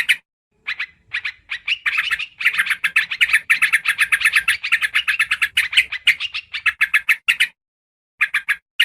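Yellow-vented bulbuls (trucukan) giving rapid, bubbly chattering calls: quick runs of short notes, densest in the middle. The calls break off for a moment shortly before the end, then resume in short bursts.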